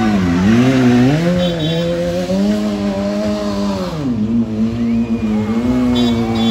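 BMW S1000R inline-four engine held at high revs in a stunt burnout, its pitch dipping and climbing, then dropping sharply about four seconds in before holding steady again. Tyre squeal runs under it in the first half.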